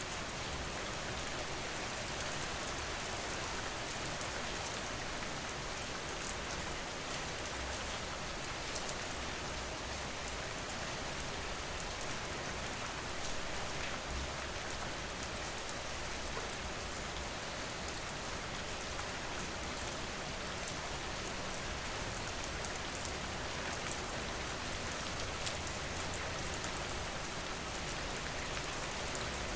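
Steady rain falling: an even hiss with scattered drop ticks, holding at one level throughout.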